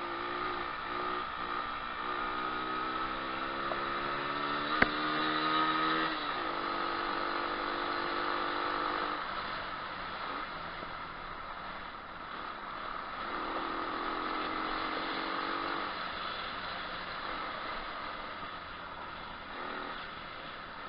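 Moto4 125cc pit bike engine riding on a trail: it revs up rising in pitch, holds steady, eases off, then picks up again. A single sharp knock cuts through about five seconds in.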